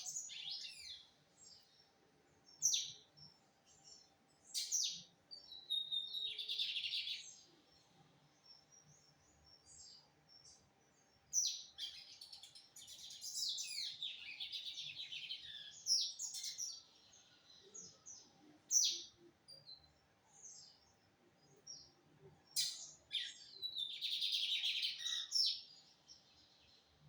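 Lined seedeater (bigodinho) singing: short high phrases separated by pauses, with longer phrases around the middle and near the end.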